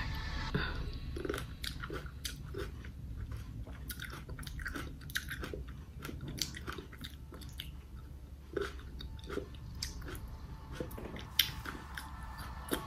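Close-miked chewing of seedless grapes: a steady run of short, wet crunches and mouth clicks, with one sharper click a little before the end.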